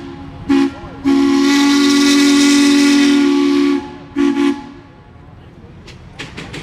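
Steam tractor's whistle blowing a short blast, a long blast of almost three seconds and another short blast, two steady notes sounding together over a hiss of steam. A few sharp clicks follow near the end.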